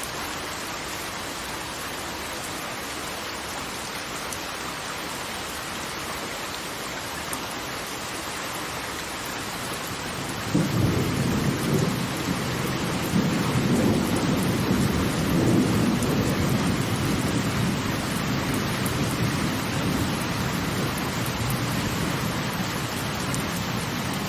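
Steady hiss of falling water, joined about ten seconds in by a low rumble that starts suddenly and rolls on, slowly fading: a peal of thunder.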